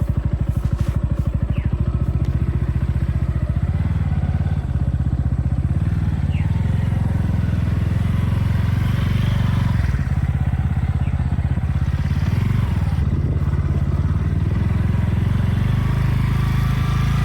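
A vehicle engine running steadily with a fast, even throb, close up.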